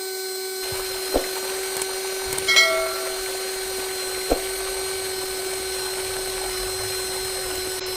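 Small electric motor running at a constant speed with a steady whine, with a couple of sharp clicks and a brief bright ring.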